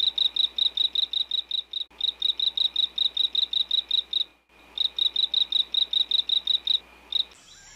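A small animal's chirping call: rapid high-pitched chirps, about seven a second, in runs broken by two short pauses, stopping shortly before the end.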